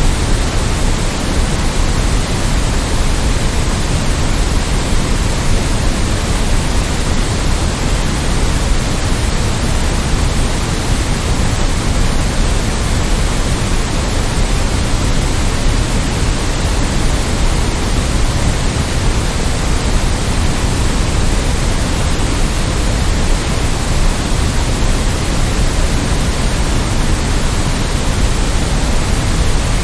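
Steady artificial noise played as a sleep sound: an even, unchanging hiss across the whole range, slightly fuller in the low end.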